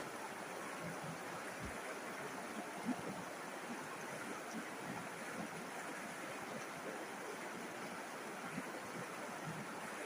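A river flowing steadily: an even rushing of water with small gurgles scattered through it.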